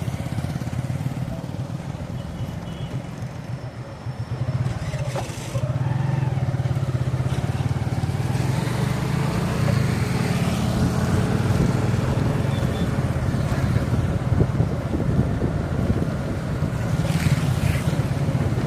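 Motorcycle engine running steadily while riding, with road and wind noise. It gets louder about five seconds in.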